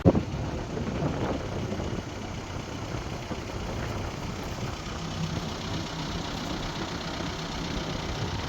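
Sailboat's engine running steadily under way, a low rumble with a thump right at the start.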